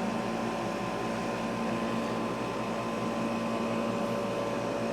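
Steady machine hum in the room background, even throughout, with a few constant held tones.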